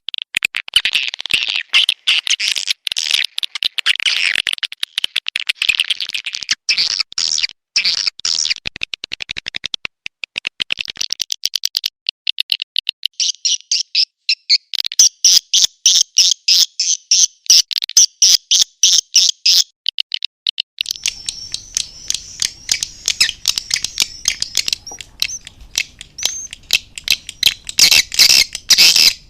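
Swiftlets, the edible-nest swiftlets of bird-nest farming, chirping and twittering in rapid, dense trains of high calls. This is the swiftlet call sound played to draw the birds into a nest house. About two-thirds of the way through, a faint low hiss sets in beneath the calls.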